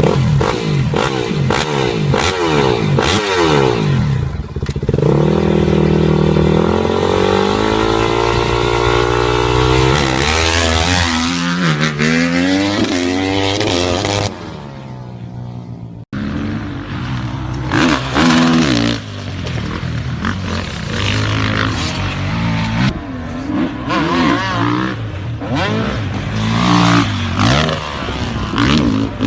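Motocross dirt bike engines revving up and down as the bikes ride. The sound breaks off abruptly about halfway through, and more bike engine sound with scraping and clattering follows.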